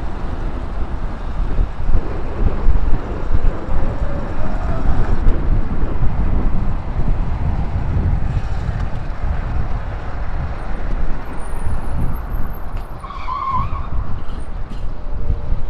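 Wind buffeting the microphone of a moving Sur-Ron electric dirt bike, with the motor's faint whine rising about four seconds in and falling again near the end.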